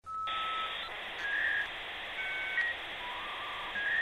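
Channel intro sound: a series of short whistle-like tones at changing pitches over a steady hiss.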